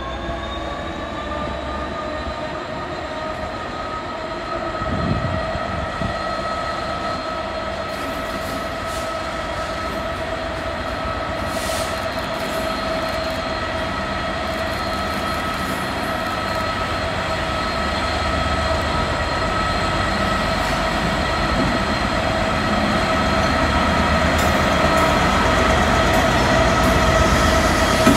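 Class 66 diesel locomotive's two-stroke engine running as it hauls a freight train of loaded box wagons slowly through a curve, with a steady high whine over the rumble of engine and wheels. It grows steadily louder as the locomotive draws up alongside.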